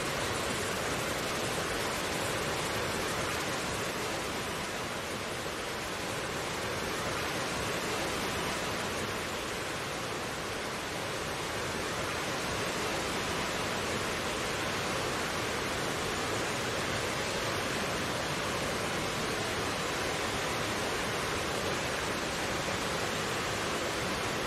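Mountain stream water flowing, a steady, even rush with no breaks.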